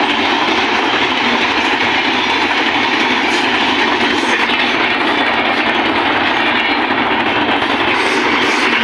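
An express passenger train's coaches passing close by at speed: a loud, steady rush of wheel-on-rail noise.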